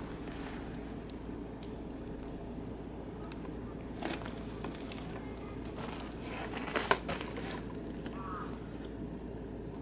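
Oak and beech wood fire burning in a barbecue grill, crackling steadily with scattered sharp pops, the loudest about seven seconds in.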